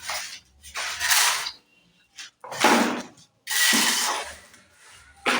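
A run of about five rough scraping strokes, each lasting under a second, with short gaps between them.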